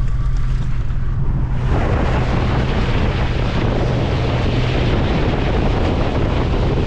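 Truck driving on a dirt road, with a steady low drone from the engine and road. About two seconds in, a loud rush of wind and road noise starts suddenly and holds steady.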